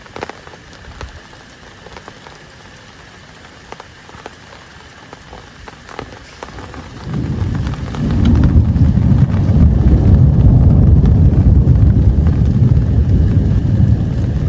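Rain pattering, with scattered drops ticking. About halfway through, a loud low rumble builds up and holds, much louder than the rain.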